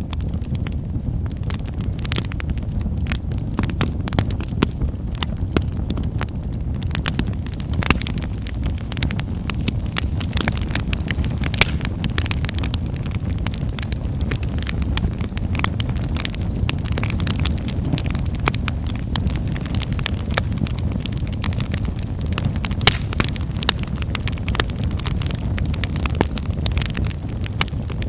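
Wood fire in a fireplace crackling: a steady low rumble with many sharp, irregular pops and snaps.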